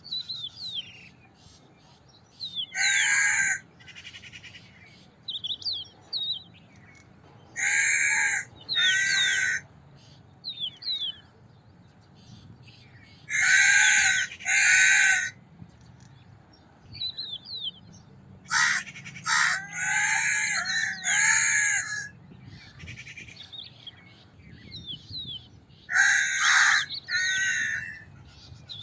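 Crow cawing: loud, harsh caws in short groups, mostly two at a time, with one longer run of four or five calls in the middle. Smaller birds chirp faintly between the caws.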